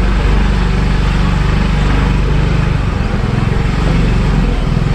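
Motorbike engine running steadily during a ride.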